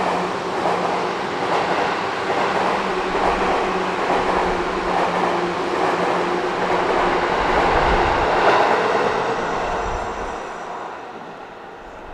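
Train running noise heard from inside a Seibu 3000 series commuter car: rumble and wheel noise that swells for about eight seconds, then fades over the last few seconds.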